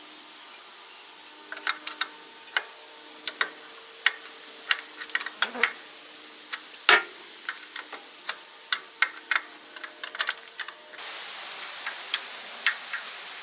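Sharp, irregular clicks and taps, sometimes several a second, over a steady hiss that gets louder near the end.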